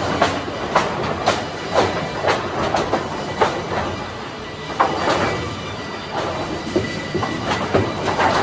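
Automatic timber-processing machinery running, with wooden boards knocking and clattering irregularly, about every half second, over a steady mechanical rumble.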